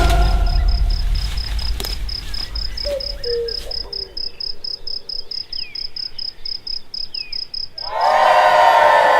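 A cricket chirping in an even, high-pitched pulse, about four or five chirps a second, with a few faint bird calls. Music cuts in near the end.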